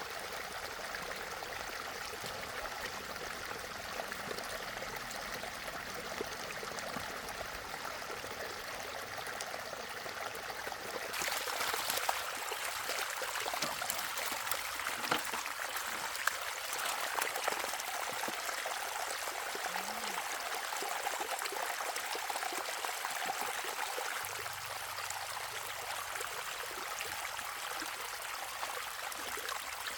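Water running and splashing steadily, growing louder about eleven seconds in, with a few sharp knocks soon after.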